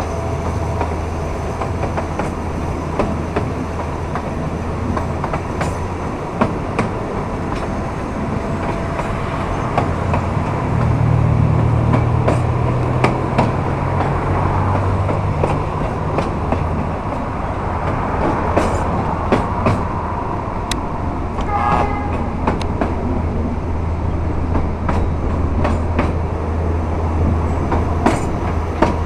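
A moving narrow-gauge passenger train heard from a carriage window: the diesel locomotive's engine drones steadily while the wheels click over rail joints. From about a third of the way in, the engine hum rises in pitch and grows louder for several seconds, and a brief high squeal comes about three quarters through.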